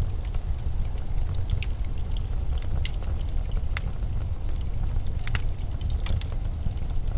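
Blizzard wind: a steady low rumble with scattered sharp crackles and ticks over it.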